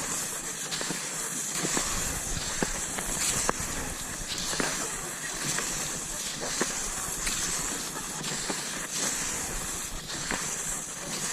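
Cross-country skis swishing over snow in a steady stride, the hiss swelling and easing about once a second, with sharp clicks of ski poles being planted.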